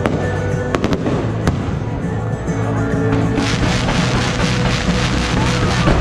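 Fireworks over loud music: a few sharp bangs in the first couple of seconds, then from about three seconds in a dense run of crackling as a volley of comets launches.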